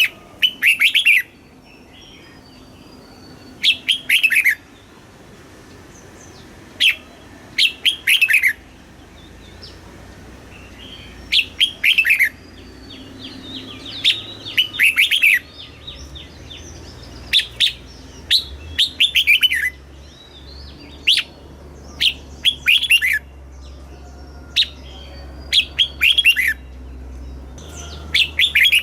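Red-whiskered bulbul singing: short, lively phrases of quick falling notes, one every two to three seconds. A faint low hum sits underneath.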